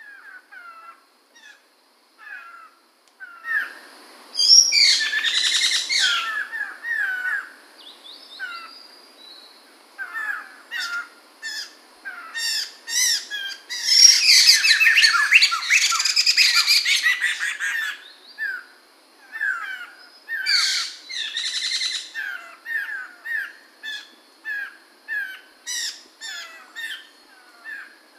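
A poksay mantel laughingthrush calling: a run of short, clear whistled notes, broken by two loud bursts of rapid chattering song, one a few seconds in and one in the middle.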